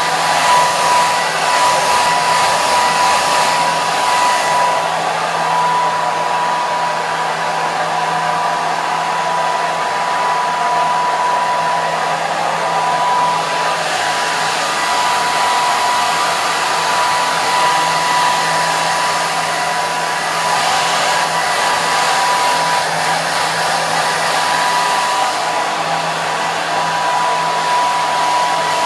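Hair dryer running steadily: a continuous rush of blown air with a constant motor whine.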